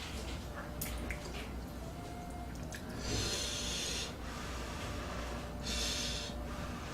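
A person breathing out hard through the nose or mouth while eating, twice, each a hissy rush of air about a second long, the two about three seconds apart, with faint chewing clicks just before.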